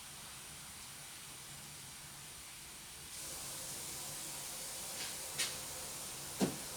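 Steady hiss of running water, which gets louder about three seconds in, with two short knocks near the end.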